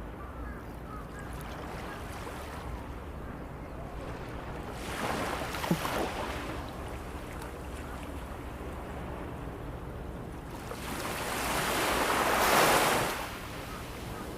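Ocean waves breaking and washing up a sandy shore over a low steady rush: one wave about five seconds in, and a louder one that builds and then falls away quickly near the end.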